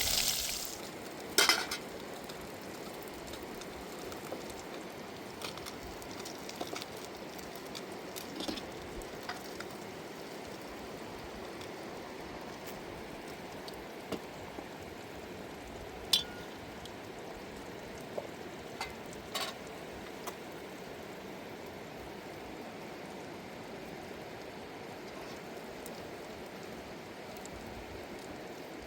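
Steady hiss with a few sharp clinks or knocks scattered through it, the loudest about a second and a half in.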